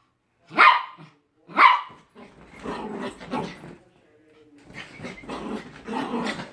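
Dog barking twice, loud and sharp, then growling in two longer, rougher stretches.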